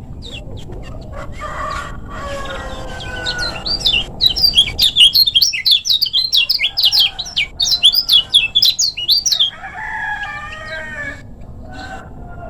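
Kecial kuning songbird singing a fast, dense run of sharp, high chirps, about five a second, for roughly five seconds in the middle. Softer, lower warbling comes before and after the run.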